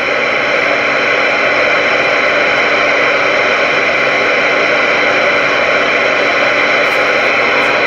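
Steady, loud hiss of static from a General Lee ten-meter radio's receiver, with faint steady tones running through it.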